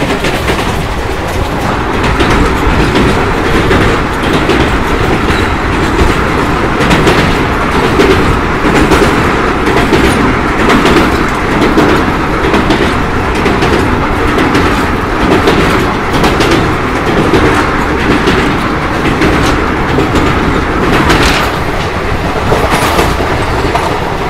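Secunderabad–Rajkot Superfast Express, an Indian Railways train, running on the line. A loud, steady rumble of the coach and wheels is broken by irregular clacks.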